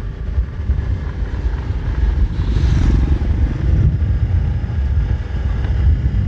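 Motorcycle being ridden, its engine running under heavy wind rumble on the microphone, with a brief hissing swell about two and a half seconds in.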